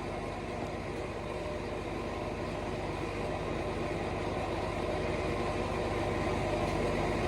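A steady mechanical hum, like an idling engine, that slowly grows louder.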